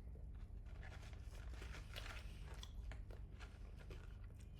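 A person chewing and eating close to the microphone: scattered small wet clicks and crackles of the mouth and food, over a steady low hum.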